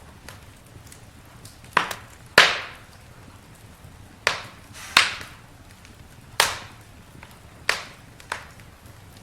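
Campfire wood crackling: about seven sharp pops at uneven intervals, each dying away quickly over a faint steady background, the loudest about two and a half seconds in.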